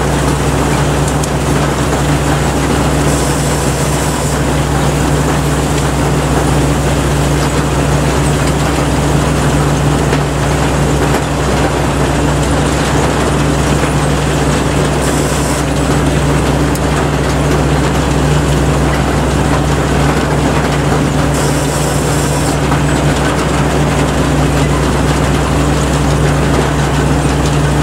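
Rice combine harvester running steadily under load, its diesel engine humming beneath the dense clatter and rush of the cutting and threshing machinery. Three short bursts of hiss break in about 3, 15 and 21 seconds in.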